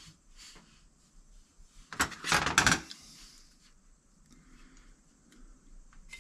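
Small metal carburetor parts and tools being handled on a workbench: a few light clicks, then a short burst of clattering and scraping about two seconds in.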